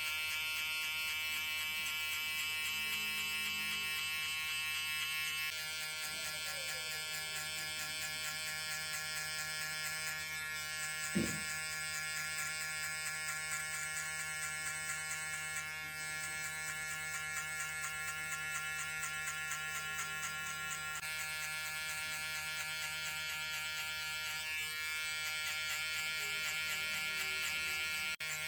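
Electric hair clippers running steadily in a continuous buzz that shifts slightly in tone every few seconds, with one brief knock about eleven seconds in.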